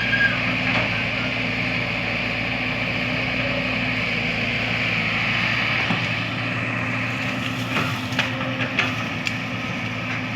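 Excavator engine running steadily, with a few short knocks in the last few seconds.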